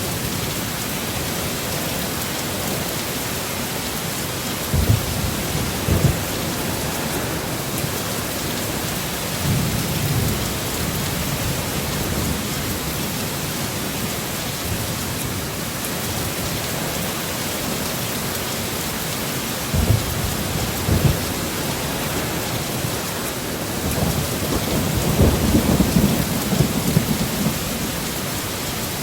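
Steady heavy rain with low rolls of thunder breaking in several times, the longest rumble near the end.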